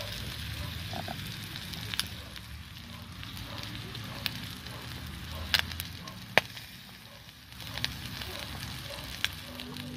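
Chicken hearts sizzling as they fry in a small pot over a camping alcohol stove, a steady hiss with a few sharp clicks scattered through it.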